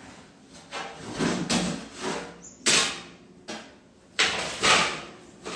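Kitchen clatter from metal baking trays and the oven door being handled: a few separate scrapes and clunks, the sharpest about halfway through and another pair near the end.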